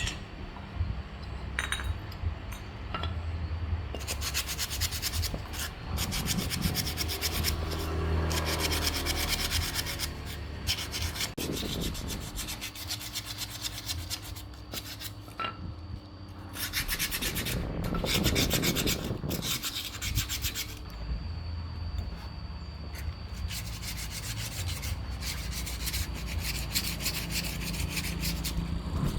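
Repeated abrasive rubbing strokes, as of hand sanding or rasping a part, going on with short pauses over a low steady hum.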